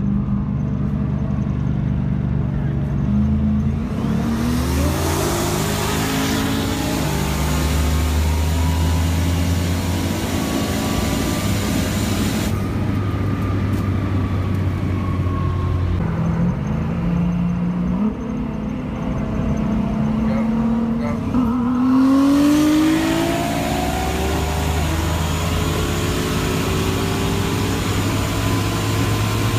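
Turbocharged car engine heard from inside the cabin under hard acceleration, its pitch climbing and falling back at several gear changes over loud wind and road noise.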